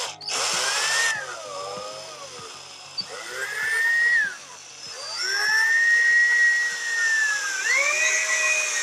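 Electric power tool motor whining under changing load, its pitch sagging and recovering several times, with a harsher grinding burst in the first second.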